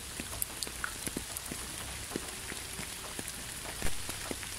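Rain falling steadily, with many separate drops ticking on a surface over a constant hiss. One louder hit comes a little before the end.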